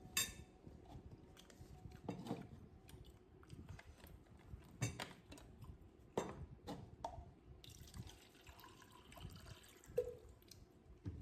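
Close-up eating sounds: wet mouth sounds with several sharp clicks scattered through, the loudest just after the start, near the middle and toward the end.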